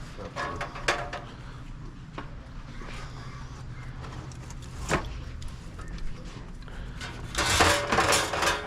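Drink bottles being handled and loaded into a vending machine: scattered knocks and clunks against a low hum, with a denser stretch of clattering near the end.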